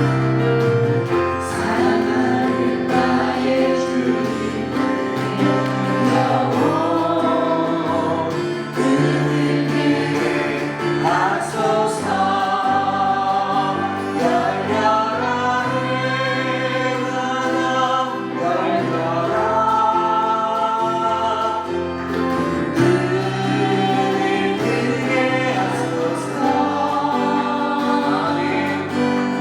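Christian worship song: a group of voices sings long, wavering held notes over a steady instrumental accompaniment.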